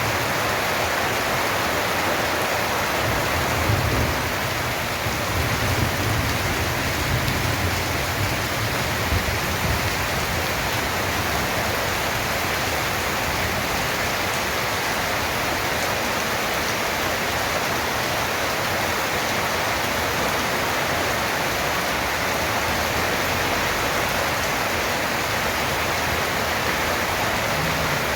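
Heavy rain falling steadily, a dense even hiss. A low rumble sits under it for several seconds in the first third.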